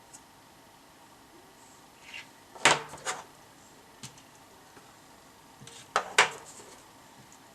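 Two short bursts of clattering knocks, about three seconds apart, each made of a couple of sharp clicks, with a faint single click in between: hard objects being handled and set down during bench work.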